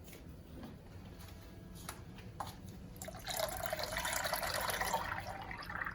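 Whole milk being poured into a cooking pot: a steady pouring splash starts about three seconds in and stops just before the end, after a couple of light knocks from the container.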